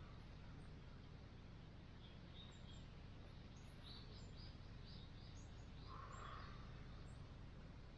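Quiet outdoor ambience: a steady low rumble with a scattered series of faint, high bird chirps.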